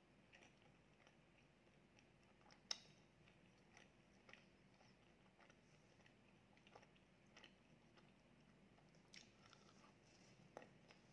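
Faint chewing of pizza, with small mouth clicks scattered through and one sharper click a few seconds in; near the end, a bite into the pizza crust.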